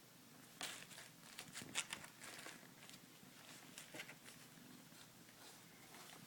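Faint, scattered scratches and rustles of a kitten moving about in a box, a handful of short sharp scrapes with the loudest cluster about a second and a half to two seconds in.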